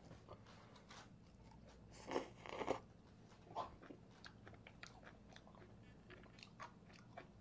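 Faint chewing and crunching of a mouthful of stir-fried kimchi, with a couple of louder bites about two seconds in.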